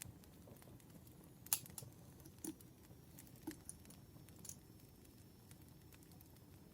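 Faint campfire crackling: a low, steady rustle of burning wood with a few sharp pops, about one a second in the middle of the stretch.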